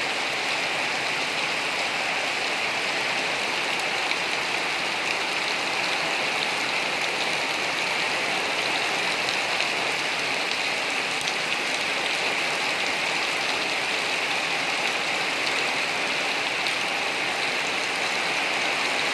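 Steady morning rain falling, an even, constant hiss with faint scattered drop ticks.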